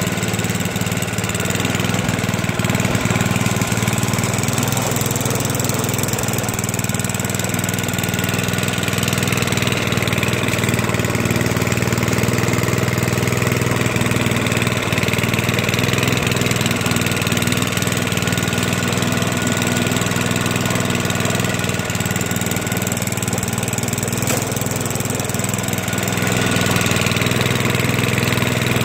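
Toro 421 snowblower's small engine running steadily just after a cold start, its first run after about two years sitting unused.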